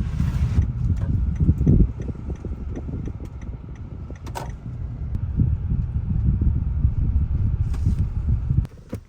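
Low rumble of a 2015 Kia Sedona minivan driving, heard from inside the cabin, with a few light clicks and knocks. The rumble drops off sharply near the end.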